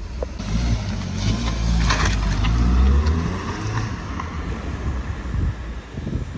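Car engine running with a low rumble that builds to its loudest about three seconds in and then eases off, with wind-like hiss on top.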